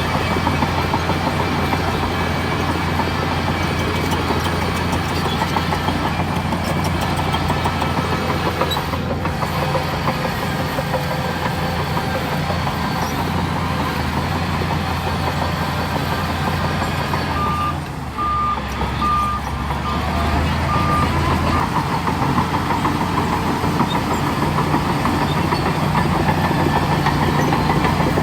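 Heavy diesel earthmoving machinery, a bulldozer at work, running steadily under load with a low drone. About eighteen seconds in, the engine note dips briefly and a run of about five short, high reversing beeps sounds.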